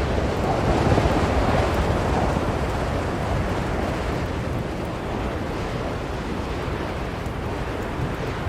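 Blizzard wind blowing steadily, a deep rushing noise that swells about a second in and then eases a little.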